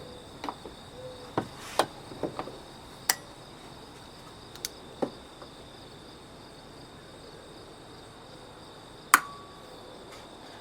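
Scattered knocks and clanks as sealed metal surplus ammo cans are handled, the loudest a sharp clank about nine seconds in with a brief ring. Crickets chirr steadily behind.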